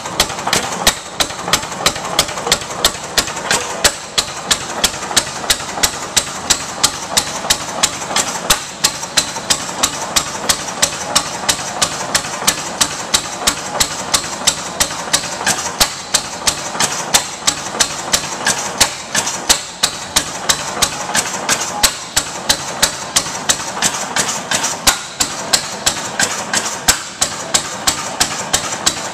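6 1/2 HP Ruston Hornsby hit-and-miss gas engine running, sharp beats recurring every half second or so over a steady mechanical clatter.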